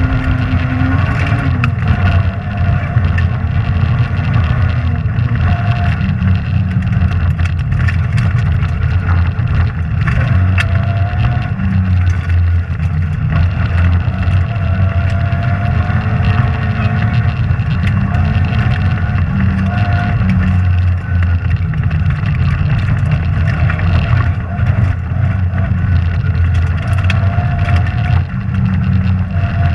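Rally car engine running hard under load at stage speed, heard from inside the cabin, its pitch rising and falling gently as the revs change, with scattered short clicks and knocks over it.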